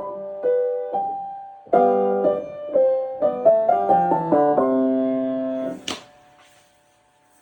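Piano being played: struck chords, then a quicker run of notes that ends on a held chord. About six seconds in, the chord is released with a sharp click and the sound drops to near quiet.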